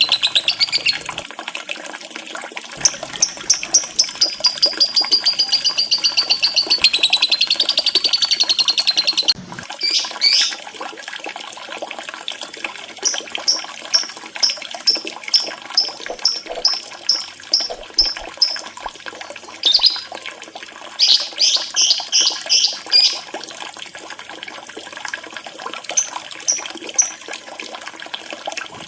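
Lovebird trilling and chirping over the steady trickle of running water. A long, rapid trill is followed by an abrupt cut, then by strings of short, sharp chirps at about three a second and a few quick bursts.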